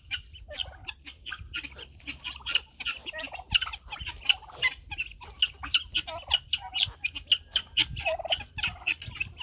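Domestic turkeys calling, a steady run of many short, quick clucking calls overlapping one another.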